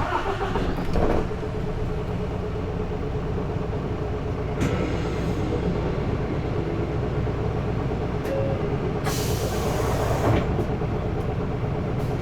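Diesel engine of a Hino Blue Ribbon II city bus (LKG-KV234N3) running steadily, heard from inside the passenger cabin. A short hiss comes about four and a half seconds in, and a louder burst of air hiss at around nine seconds, lasting about a second.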